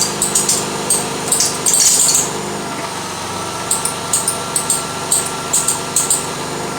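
1992 Lexus ES300's V6 engine idling while the steering wheel is turned to full lock, with repeated short high-pitched squeaks and a thin steady squeal over the engine. The squeal comes from a loose power steering belt slipping under the steering load.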